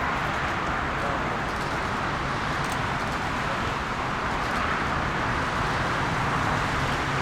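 Airliner jet engines giving a steady, even roar.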